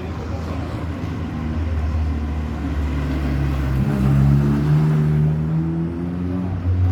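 Rally car engine running and revving, its pitch stepping up and loudest about four seconds in.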